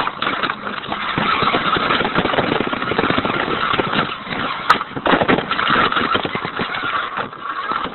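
Radio-controlled toy Hummer truck running close to the microphone: a dense, crackling rattle of motor and wheels, with a sharp click a little past halfway.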